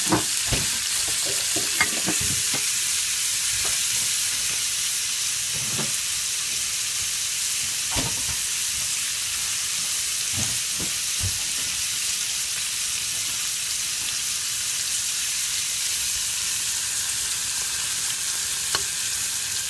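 Sliced tomatoes and green peppers sizzling in hot oil in a frying pan, a steady hiss, while a fork stirs them, scraping and tapping against the pan now and then, most often in the first few seconds.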